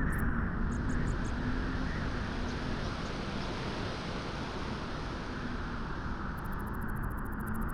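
Steady wind blowing at the beach, an even rushing with no gusts or breaks. A rapid run of faint high ticks comes in near the end.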